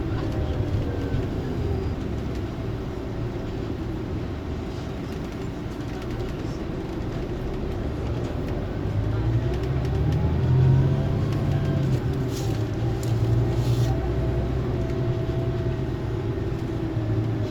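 Scania coach's diesel engine running steadily. Its note climbs over a few seconds about halfway through, at its loudest near 11 seconds, then eases off again.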